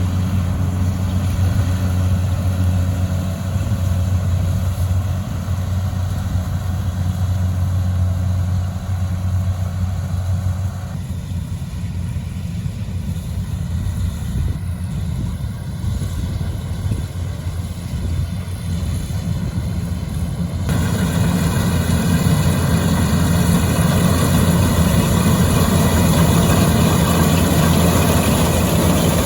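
An engine running steadily with a low hum. The sound changes abruptly about a third of the way in and again about two-thirds of the way in.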